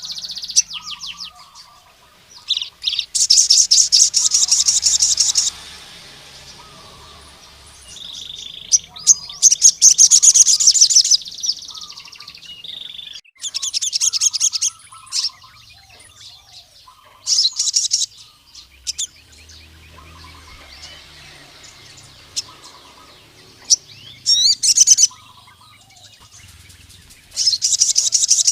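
Male crimson sunbird (sogon) singing: loud bursts of a rapid, very high-pitched trill, each lasting one to two seconds, with softer short chirps in between. It is the song of a male calling out to a rival male.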